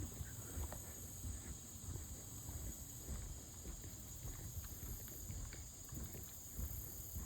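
Quiet trail ambience: a steady high-pitched insect drone, a low rumble on the microphone, and faint scattered ticks.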